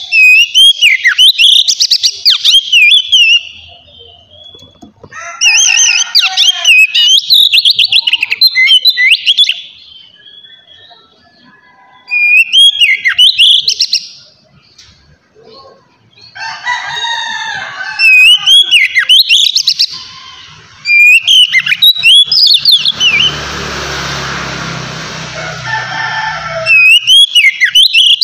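Oriental magpie-robin (kacer) singing loudly in rich, varied phrases of rapid whistled glides. The phrases come every few seconds, with short pauses between them. Near the end, a harsher, noisy sound runs under the song for several seconds.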